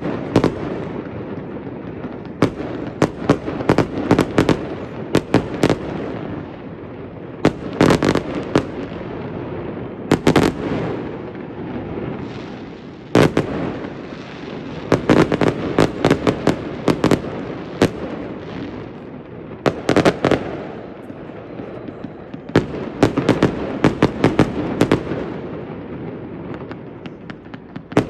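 Fireworks going off in quick clusters of sharp bangs and crackles every second or two, over a continuous rumble of distant bursts.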